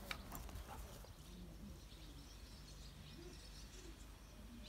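Quiet garden ambience with faint bird calls and a few light rustles in the first second.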